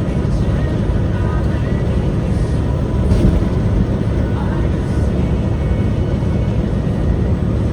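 Steady low rumble of a moving truck, with faint music under it.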